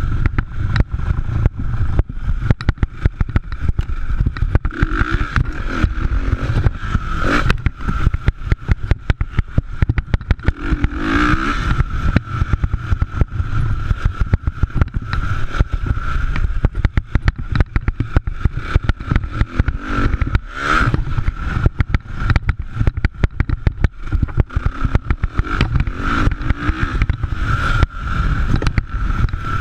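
Motocross motorcycle engines running, with a steady wavering engine note over a constant rough low rumble and crackle.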